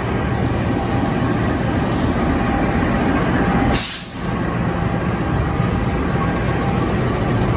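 A CC 206 diesel-electric locomotive's engine running with a steady, heavy rumble. A short sharp hiss comes about four seconds in, followed by a momentary drop in level.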